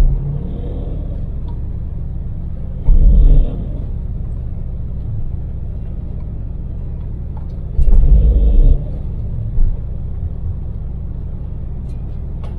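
Daewoo Damas microvan's LPG engine and road noise, heard from inside the cabin as it drives at steady speed. Two short, loud low rumbles break in, about three seconds in and again around eight seconds.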